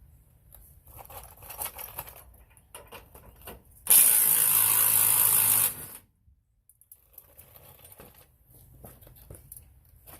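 Cordless impact wrench running in one burst of about two seconds on a rear shock absorber bolt, loosening it, with light clinks of tools being handled before it.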